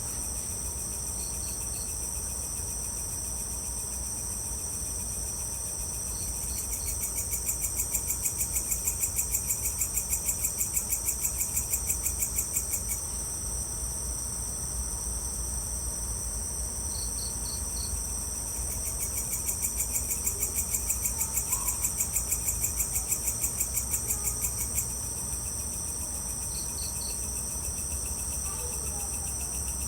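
Night insect chorus of crickets: a continuous high-pitched trill, joined twice for about six seconds by a second insect calling in rapid even pulses, with short three-note chirps every few seconds.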